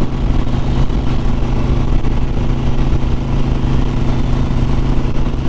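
Harley-Davidson V-twin motorcycle engine running at a steady, even speed while under way, with no revving.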